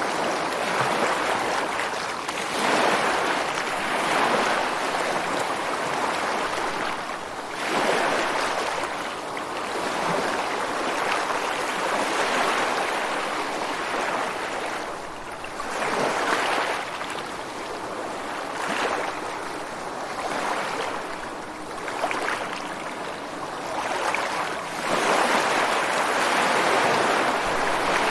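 Ocean surf breaking on a beach and washing against rocks, a continuous rush that swells and eases every few seconds as each wave comes in.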